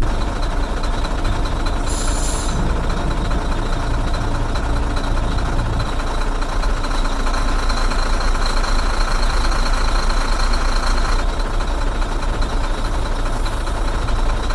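Truck diesel engine idling steadily, with a brief high hiss about two seconds in.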